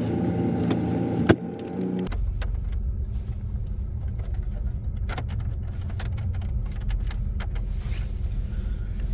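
Car engine running, heard from inside the cabin. There is a sharp click just over a second in. About two seconds in, the sound changes to a steady low rumble with scattered light clicks and rattles.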